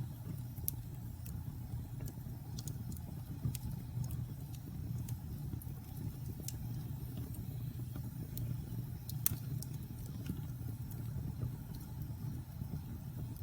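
Wood fire burning in a fireplace: a steady low rumble of the flames with scattered sharp crackles and pops, the loudest about two-thirds of the way through.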